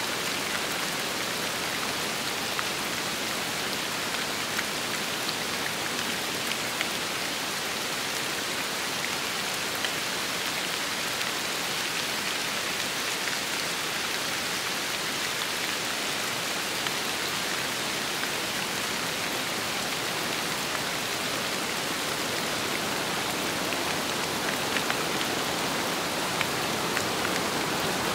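Steady rain falling with wind, a dense even hiss with scattered single drops ticking through it, growing slightly louder near the end.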